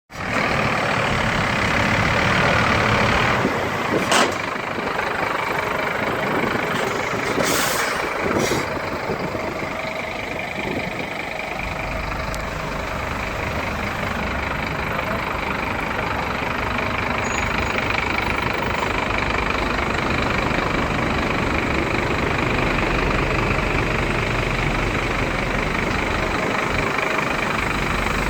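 Scania P230 truck's diesel engine running steadily, with a few brief sharp noises about four and eight seconds in.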